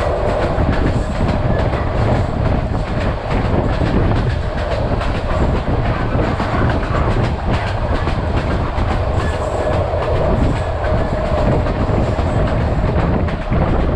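Vietnam Railways SPT1 passenger train running steadily on the track, its wheels clicking over the rail joints.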